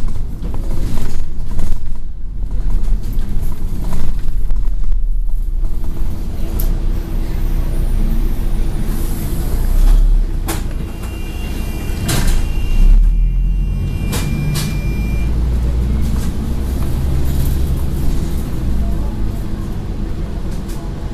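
Scania N113 bus engine running, heard from inside the bus as it pulls in to a stop. Around the middle come a few sharp clicks, air-brake and door sounds, and a thin high steady tone lasting a few seconds.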